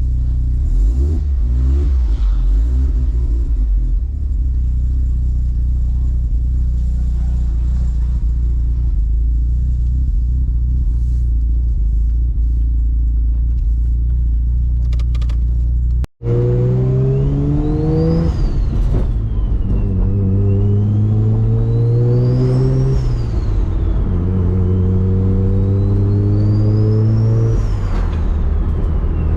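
Turbocharged car engine idling steadily, then, after a cut, accelerating hard through three gears: the engine pitch climbs and drops at each shift. A high turbo spool whistle rises and falls with each pull.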